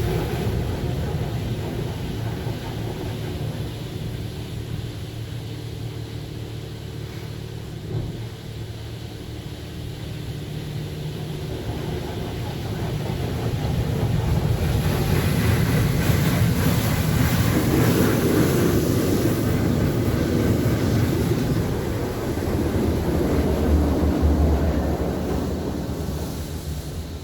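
Coleman Hanna Water Wizard 1.0 in-bay automatic car wash running, a steady rumble of machinery with a hiss of water spray. It swells louder about halfway through and again near the end.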